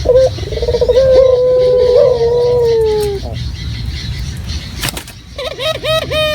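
Puter dove (Barbary dove) cooing: a long drawn-out coo lasting about three seconds, then after a pause a quick run of short falling notes that runs into another held coo near the end. A brief sharp click comes about five seconds in, over a low steady hum.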